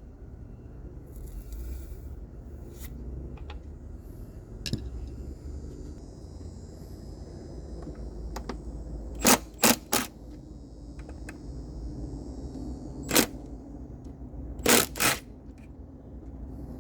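Hand tools clinking and scraping against metal engine parts. There are scattered light clicks, then sharp metallic clacks in two clusters: three about nine to ten seconds in, and three more a few seconds later.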